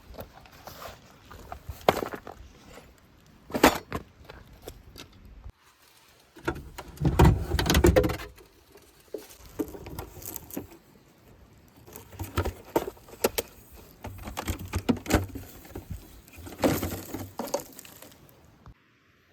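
Small camping gear being handled: a run of light metallic clicks, clinks and rattles. There is a short break near the middle, then a louder burst of handling noise, and more scattered clicks after it.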